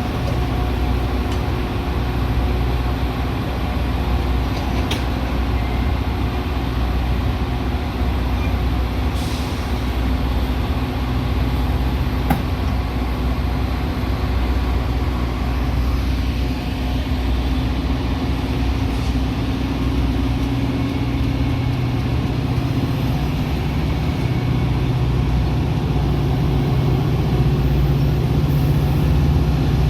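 Metra commuter train running with a steady low drone and rumble, broken by a few sharp clicks. The low hum steps up in pitch near the end.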